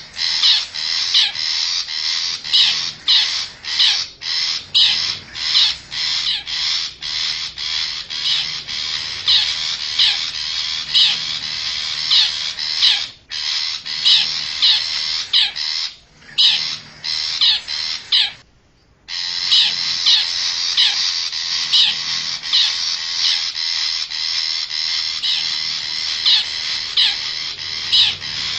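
Long-tailed shrike (cendet) calls: harsh, scratchy notes repeated about twice a second, played as a lure call for wild shrikes. A brief break about eighteen seconds in.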